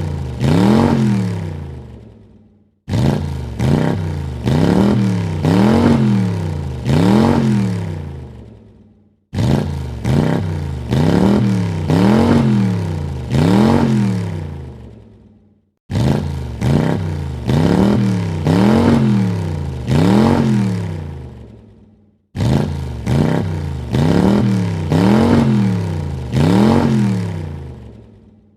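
Car engine revved in quick throttle blips: four short rises and falls in pitch, then the revs die away. The same burst repeats about every six and a half seconds, with a brief silence between repeats.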